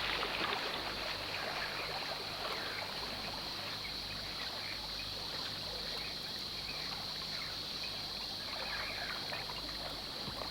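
Gentle water lapping and trickling, with the tail of a splash fading in the first second, over a steady high-pitched hum.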